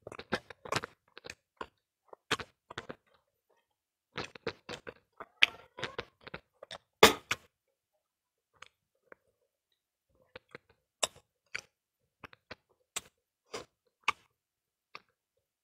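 Close-up chewing and mouth sounds of people eating chewy cilok tapioca balls: quick wet clicks and smacks in irregular clusters, busiest in the middle and sparser toward the end.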